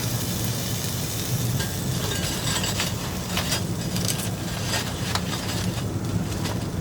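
Thick steak cooking over a campfire: steady sizzling and crackling, with several sharp clicks scattered through.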